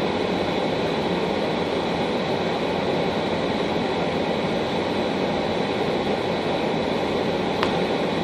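Steady road and engine noise of a car driving on a snow-covered road in a blizzard, with a single short click a little before the end.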